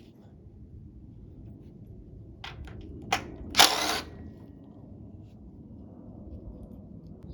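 Workshop handling noise: a few sharp clicks, then a short rattling scrape about three and a half seconds in, over a low steady hum.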